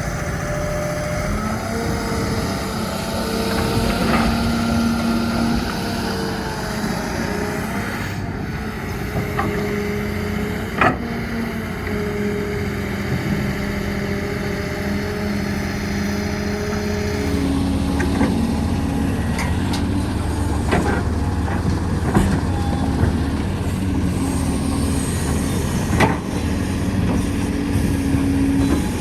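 Diesel engines of heavy earthmoving machinery, an excavator and dump truck, running under load, the engine note rising and falling, with a few sharp clunks. The sound changes abruptly about two-thirds of the way through.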